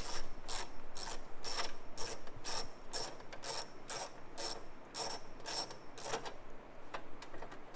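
Socket ratchet wrench clicking in steady back-and-forth strokes, about two a second, undoing a bolt; the strokes stop about six seconds in.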